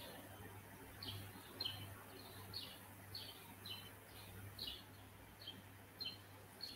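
Faint bird chirping: short high chirps that drop in pitch, repeated about twice a second, over a low steady hum.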